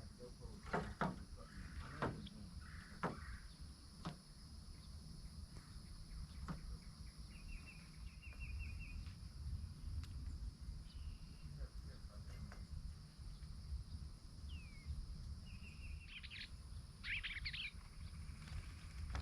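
Small birds chirping now and then over a low steady rumble: a short rapid trill about eight seconds in, and a quick cluster of chirps near the end. A few light taps come in the first few seconds.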